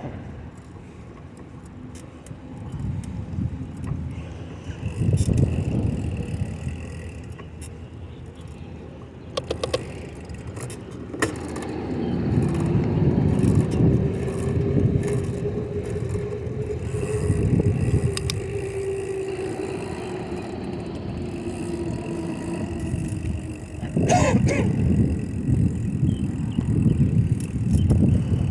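Wind rumbling on the microphone, with the low hum of a slow-moving car whose pitch rises and falls gently over about ten seconds in the middle; a few sharp clicks.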